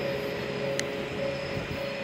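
Train at a station: a steady low engine hum with a pitched tone that pulses on and off a little under twice a second, and one sharp click about a second in.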